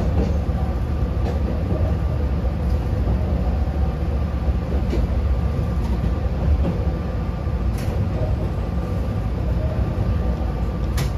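Yokkaichi Asunarou Railway 762 mm narrow-gauge electric train running, heard inside the passenger car: a steady low rumble with a faint steady hum, and a few sharp clicks, the clearest near the end.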